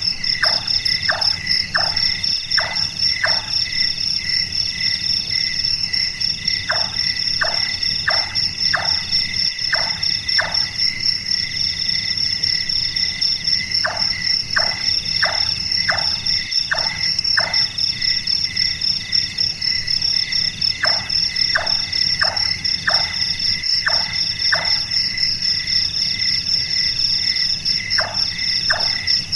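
Large-tailed nightjar calling: series of about six short 'chonk' notes, each falling in pitch, about two a second, repeated five times with pauses of a few seconds. A steady, pulsing chorus of crickets and other insects runs underneath.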